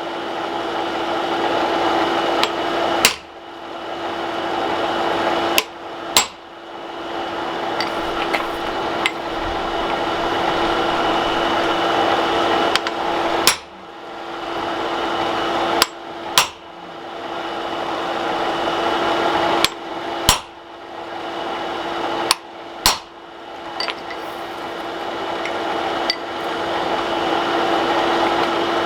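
Hand hammer striking hot mild steel on the anvil while forging axe blanks: about a dozen sharp blows a few seconds apart, several in quick pairs. A steady roar with a hum underneath runs behind them.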